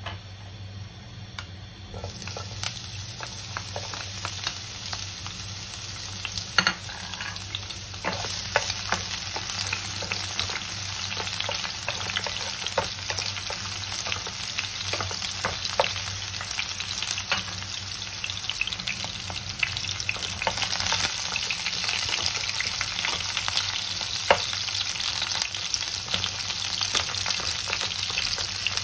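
Chopped onion and garlic sizzling in hot oil in a nonstick frying pan, stirred with a wooden spatula that knocks against the pan now and then. The sizzle starts suddenly about two seconds in and gets louder a few seconds later.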